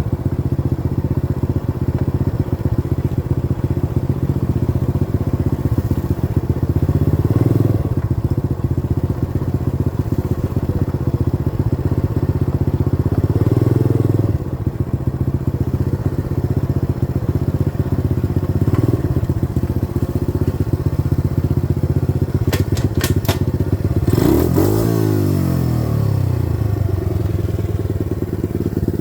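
A 90cc dirt bike's small engine running as it is ridden, the revs swelling and easing a few times. A little over twenty seconds in come several sharp clicks, and near the end the revs sweep down and back up.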